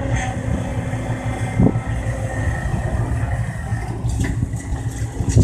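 Heavy diesel engine of a Kobelco excavator running steadily at work, with a knock about a second and a half in and a few clicks near the end.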